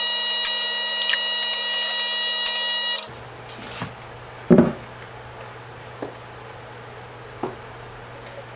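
Powered star press running under load to about 1,000 psi: a loud, steady whine and buzz that cuts off abruptly about three seconds in. A low hum follows, with a few sharp knocks, the loudest about four and a half seconds in.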